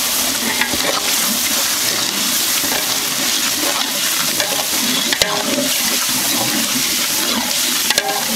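Onions frying in oil in a large aluminium pot, sizzling steadily as ginger-garlic paste is poured in and stirred through with a long metal ladle. The ladle scrapes, and knocks against the pot about five seconds in and again near the end.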